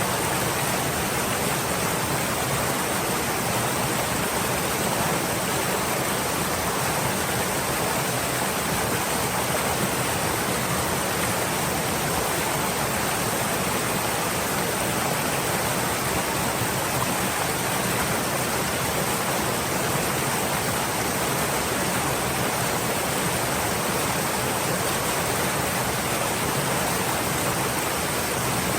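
Stream water flowing steadily, a constant even rush with no breaks or louder splashes.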